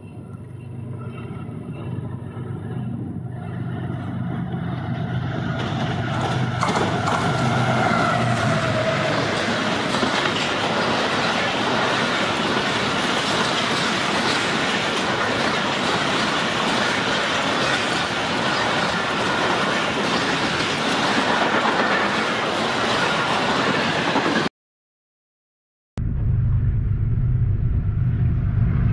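Express train hauled by a diesel locomotive, approaching and passing at speed. The engine hum grows louder over the first several seconds, then gives way to a loud steady rush of wheels on rails. Near the end the sound cuts off abruptly for about a second and a half, then a deep engine drone starts.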